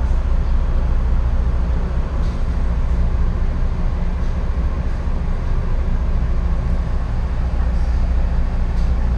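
Passenger train running, heard from inside the coach: a steady low rumble with a few faint clicks.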